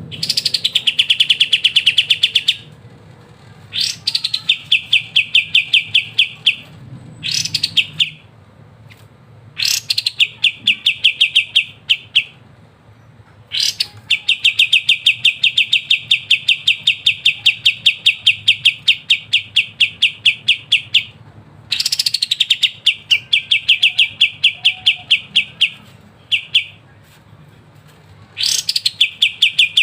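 Kapas tembak bulbul singing in long, rapid rattling trills ('ngebren'): repeated bouts, each opening with a short rising note, the longest running about seven seconds, with short pauses between them.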